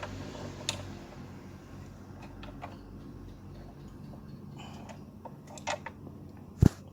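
Scattered light plastic clicks and ticks from a clip being fastened onto engine-bay wiring, with a cluster of clicks after about five seconds and one sharp click near the end.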